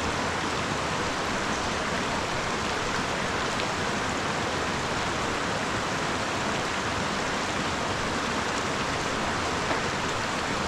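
A mountain river's water rushing steadily, an even noise with no breaks.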